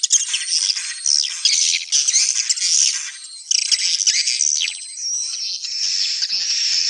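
Swiftlet (burung walet) calls: a dense chorus of rapid, high-pitched chirps and twitters, with a thin held whistling tone running under them in the second half.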